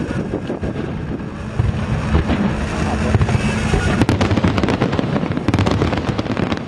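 Fireworks display: a continuous low rumble of bursting aerial shells, with rapid crackling that grows much denser about four seconds in.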